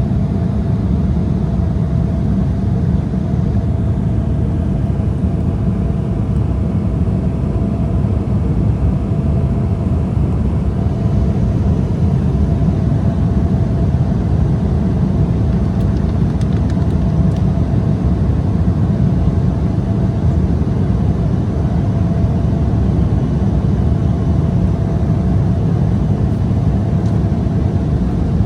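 Steady in-flight cabin noise of an Embraer 175 jet: a low, even rush of airflow and its twin GE CF34-8E turbofans, with a faint steady hum above it.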